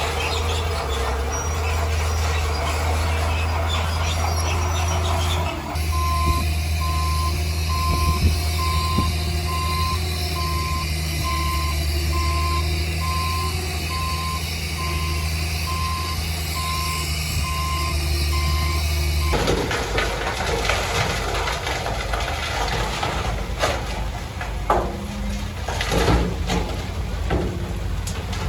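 Heavy diesel earthmoving machine running, with its backup alarm beeping about once a second through the middle. Near the end the sound changes to engine noise with scattered clanks and knocks.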